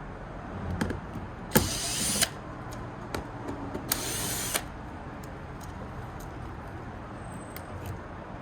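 Power drill with a Torx bit spinning in two short bursts, each under a second, backing out Torx screws, with light clicks and taps of the bit and screws in between.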